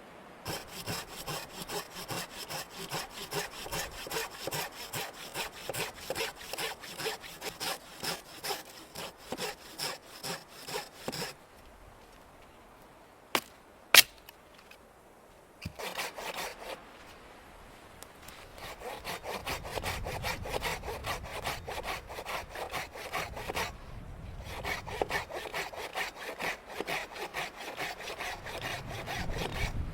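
Hand saw cutting through wood in quick back-and-forth strokes, about three a second. It pauses midway, with two sharp knocks, then starts again and saws on.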